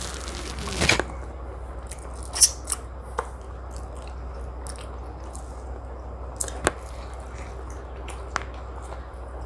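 Close-miked eating of chicken biryani and tandoori chicken: chewing and biting with scattered sharp mouth clicks and smacks, after a brief rustling noise in the first second. A steady low hum runs underneath.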